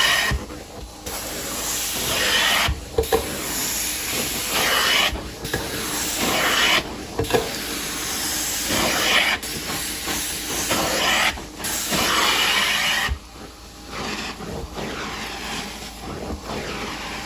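Carpet-cleaning extraction wand spraying and vacuuming with a loud hiss, in repeated passes broken by short pauses.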